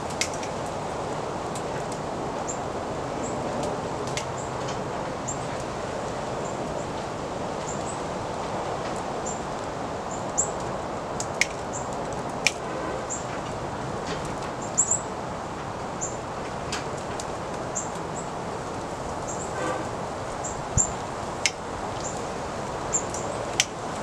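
Steady rustle of wind in leaves, with short, very high bird chips repeating irregularly about every second and a few sharp clicks.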